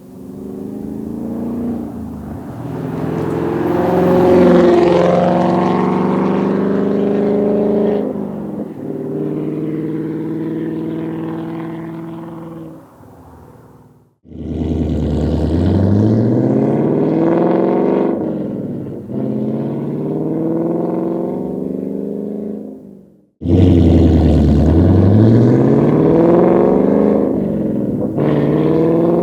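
Ford Mustang GT's 5.0L V8 through an MBRP 3-inch active cat-back exhaust with quad tips, accelerating in three separate clips with abrupt cuts between them. The first builds to its loudest about four seconds in and then holds steady; the second and third each start low and climb in pitch as the engine revs up.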